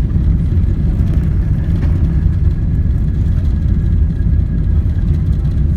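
Steady low rumble of a Boeing 777-300ER heard from inside the passenger cabin during landing, with a faint steady whine above it.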